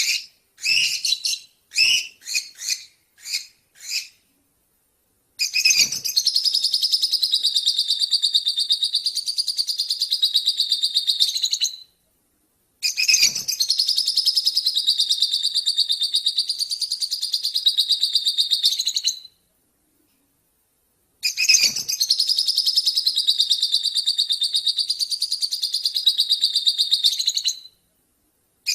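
A small songbird, the 'lobert' of Indonesian bird keepers, giving a few short high chirps and then three long unbroken bouts of rapid, high twittering song. Each bout lasts about six seconds, with a short pause between them.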